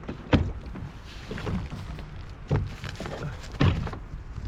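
Three dull knocks against a rotomoulded plastic boat hull, one just after the start, one in the middle and one near the end, over a steady low wind-and-water rumble.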